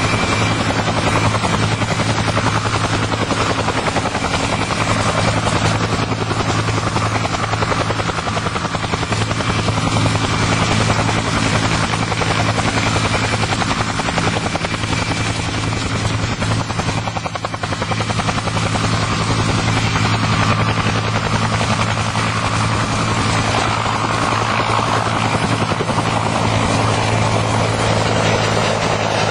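UH-1H Huey helicopter running steadily: turbine whine and rotor noise with a fast, even rotor beat, dipping briefly past the middle.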